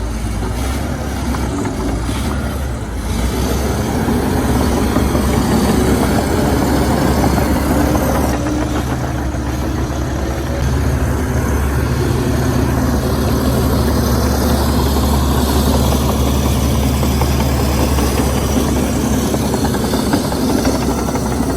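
Heavy diesel earthmoving machinery running steadily, its engine getting louder about three seconds in and staying strong.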